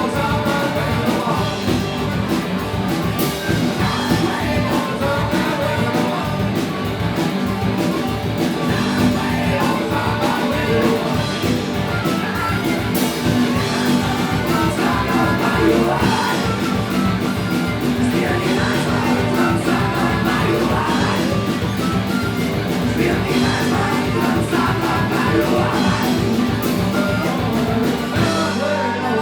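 Live rock band playing a song with a singer, keeping a steady beat.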